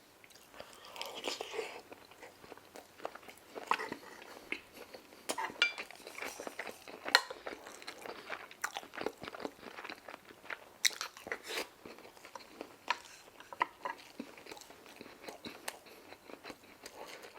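A person chewing food close to the microphone with open-mouth smacking: a run of irregular, quick mouth clicks.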